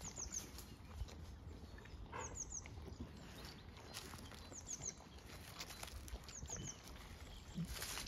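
A small bird calling in the background: a group of three quick, high, falling notes repeated about every two seconds. Soft rustles and light steps sound in leaf litter underneath.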